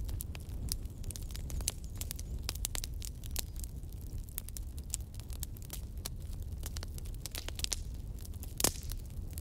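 Wood fire crackling: irregular sharp pops and snaps over a steady low rumble of burning, with one louder pop near the end.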